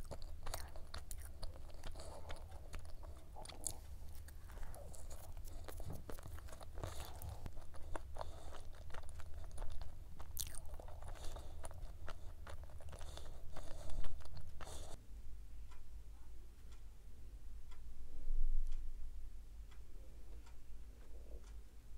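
Close-up chewing and crunching of a flaky, layered black sesame cube pie, with crisp crackles. The chewing stops about fifteen seconds in, followed by quieter, soft sounds of pastry being pulled apart by hand.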